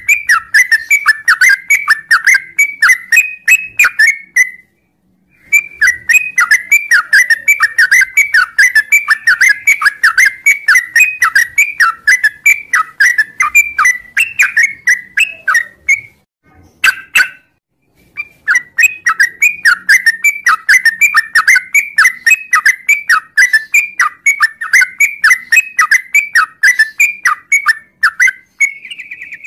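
Yellow-vented bulbul (trucukan) singing a long, fast run of sharp repeated notes, about four or five a second, broken by two short pauses.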